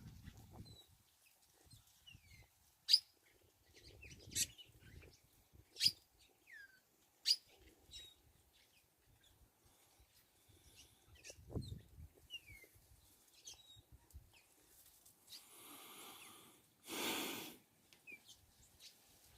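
Birds calling: four sharp chirps about a second and a half apart, with scattered brief falling whistles between them. A short rushing noise comes near the end.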